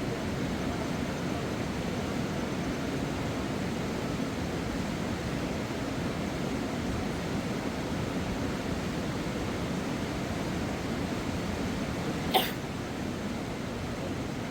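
Steady rushing of a fast mountain river, with one sharp click near the end.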